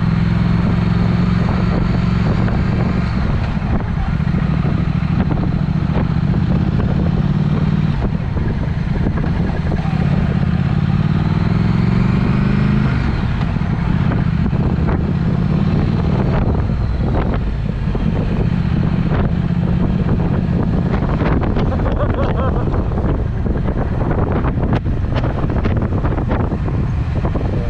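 Triumph Speed Twin's parallel-twin engine running through a Vance & Hines aftermarket exhaust while riding. Its note rises as it accelerates about ten seconds in. Many short sharp cracks come through in the second half.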